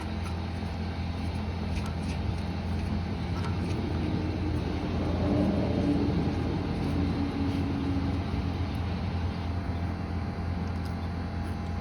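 A steady low mechanical hum, swelling slightly midway, with faint light ticks of parts being handled.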